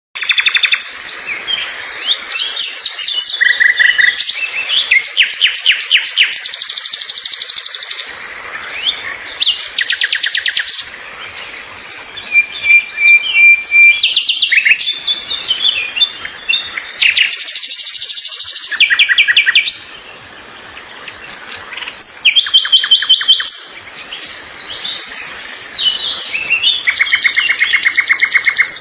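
Several birds singing and calling at once, a dense chorus of overlapping rapid trills and high chirps.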